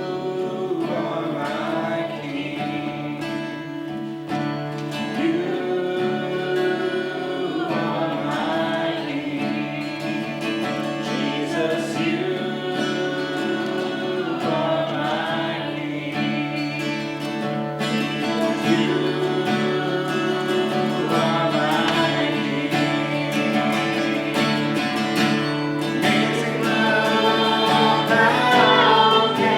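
Acoustic guitar strummed as accompaniment to singing: a simple sing-along song.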